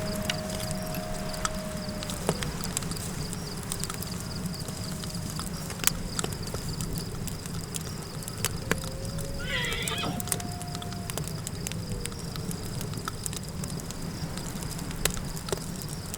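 Campfire crackling with sharp scattered pops over a steady low rumble of desert wind, with long thin howling tones that glide slowly down. About nine and a half seconds in there is a brief, trembling animal call.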